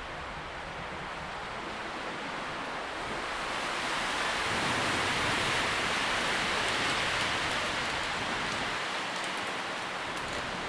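Wind rustling through tree leaves, a steady hiss that swells in a gust a few seconds in and eases off toward the end.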